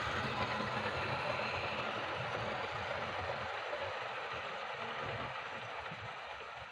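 Model Castle Class locomotive running on a test track layout: a steady mechanical running noise from the motor and wheels on the rails, getting quieter toward the end.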